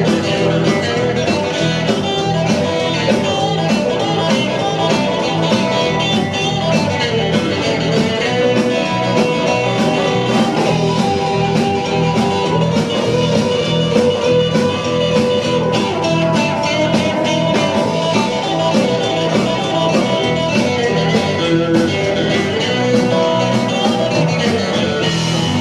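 Rock and roll band playing an instrumental break, guitar over a steady boogie beat.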